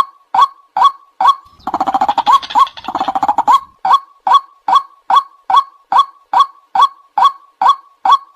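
White-breasted waterhen (ruak-ruak) lure call: a short hooked 'kwak' note repeated monotonously about twice a second. About one and a half seconds in it breaks into a rapid, stuttering chatter for about two seconds before the even calling resumes.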